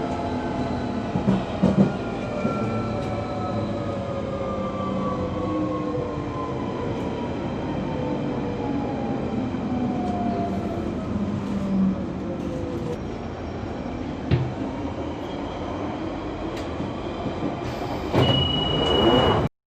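London Underground Central line train heard from inside the carriage: running noise with a motor whine that falls steadily in pitch over about twelve seconds as the train slows. A short steady beep sounds near the end.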